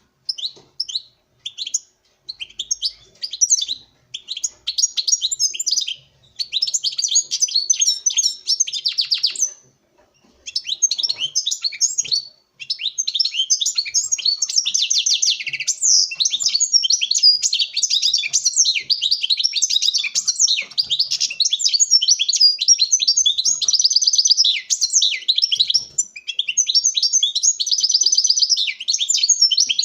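European goldfinch (Carduelis carduelis) singing: short call notes at first, then a fast, continuous twittering song, which the keeper describes as the male singing intensely to a female in courtship.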